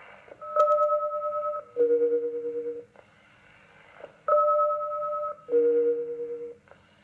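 SELCAL selective-calling tones received over HF aeronautical radio. Two pairs of steady simultaneous tones, each about a second long with a short gap between them, are sent twice. The first pair in each group is higher than the second, and faint radio hiss lies between the groups. This is the ground station's SELCAL check alerting the aircraft.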